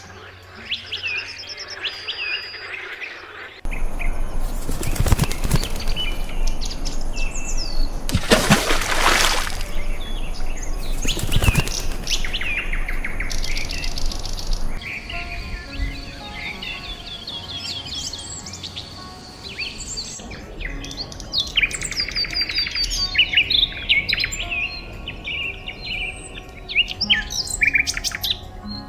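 Several small birds chirping and trilling, with three loud rushing noise bursts in the first half.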